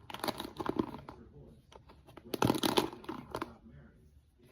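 Crinkling and rustling of something being handled, in two bursts: one in the first second and a louder one from about two and a half to three and a half seconds in.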